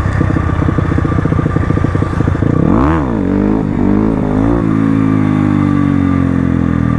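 Crossfire RM250 dirt bike engine running, revved up and dropped back sharply about three seconds in, with a smaller blip of the throttle shortly after, then running steadily.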